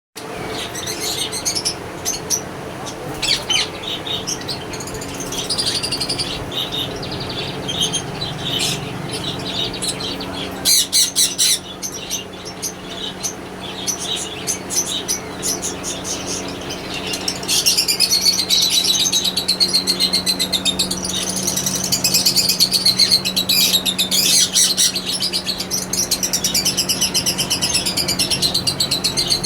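Yellow ringneck parakeets chirping and chattering, the calls becoming dense and rapid a little past halfway, over a steady low hum.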